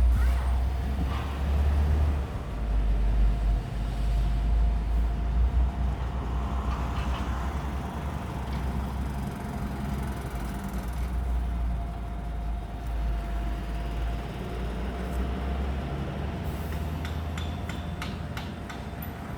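A steady low rumble with a faint constant hum, and a run of short clicks near the end from a puppy gnawing on a bone.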